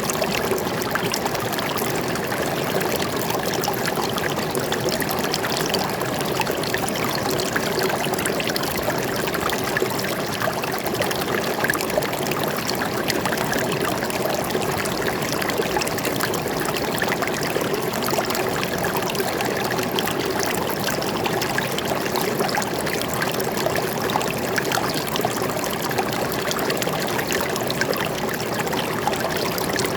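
Flowing water, a stream running and trickling in a steady, unbroken rush.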